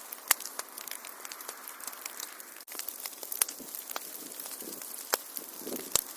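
Wood fire crackling in a fireplace: a steady soft hiss with scattered sharp pops and snaps, the loudest about a third of a second in and again near the end. The sound cuts out for an instant about two and a half seconds in.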